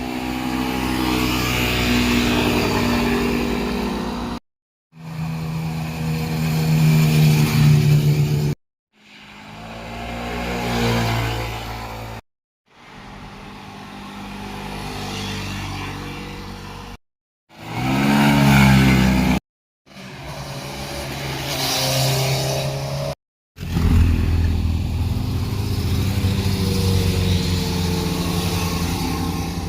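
Sport motorcycles revving and passing on a mountain road, heard as about seven short clips separated by abrupt silent cuts. The engine pitch rises and falls within several clips as the bikes accelerate and go by.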